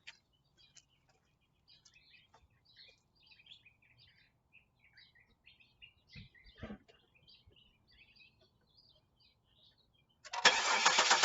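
Birds chirping faintly, with a couple of soft knocks about two-thirds in. Near the end the starter begins cranking the 2000 Chevy Camaro's 3.8 L V6 with starting fluid sprayed into the intake, a test of whether the engine, which is getting no fuel, is being starved by a failed fuel pump.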